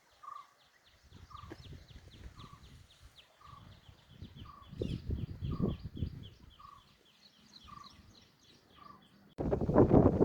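Birds calling: a short note repeated evenly about once every three-quarters of a second, over a rapid run of high chirps. Near the end a loud rumbling noise cuts in suddenly.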